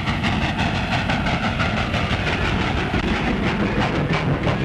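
Train running along the rails with a steady, rapid rhythmic clatter of wheels over the rail joints.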